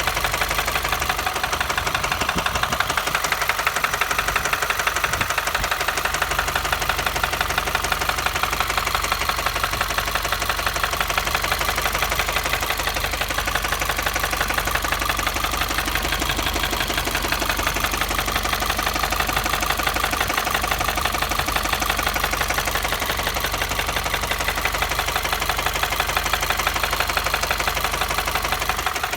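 2015 Subaru WRX's turbocharged flat-four engine idling steadily with a rapid, even knocking noise, an abnormal sound the owner takes for a serious engine fault.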